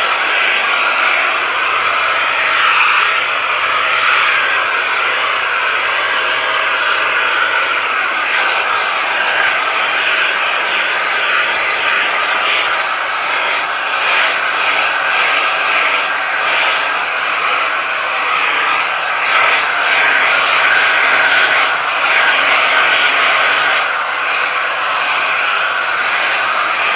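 Vacuum cleaner running steadily, its level wavering slightly.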